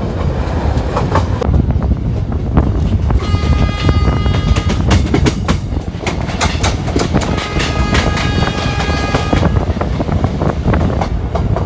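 Train running fast on the rails with a steady rumble and the repeated clicks of wheels over rail joints. A train horn sounds twice: about three seconds in for a second and a half, and again about seven seconds in for about two seconds.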